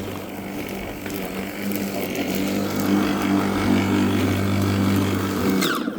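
Worx 40 cm battery lawnmower running, its motor and blade giving a steady hum while cutting. Near the end it is switched off and the pitch falls as it winds down.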